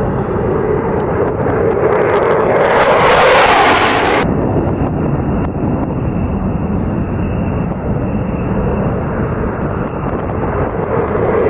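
Military jet aircraft engines running with a loud, noisy roar. About four seconds in the sound cuts abruptly to a duller, steadier jet rumble.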